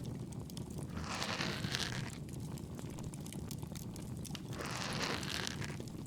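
Bonfire crackling steadily with scattered small pops. Over it come two soft rushing swells, each about a second long, the first about a second in and the second near the end.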